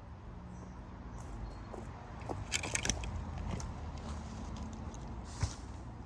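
Dry plant stems and deadwood crackling and snapping as they are pulled and handled, with a cluster of sharp snaps about two and a half seconds in and one more snap near the end.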